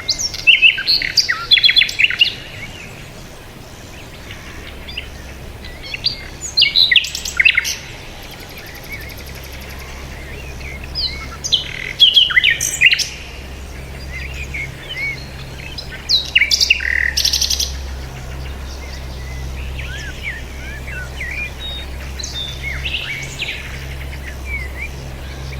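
Birds chirping in loud bursts of rapid, high twittering every four or five seconds, with fainter calls in between, over a steady low hum.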